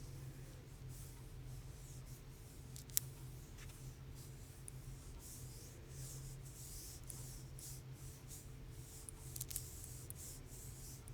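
Faint, intermittent scratchy strokes of painting tools working on illustration board, over a low steady hum, with one sharp click about three seconds in.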